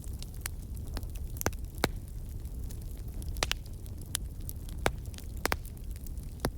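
Wood fire crackling in a fireplace: a steady low rumble of the flames with sharp pops and snaps every second or so, the loudest about two seconds and five seconds in.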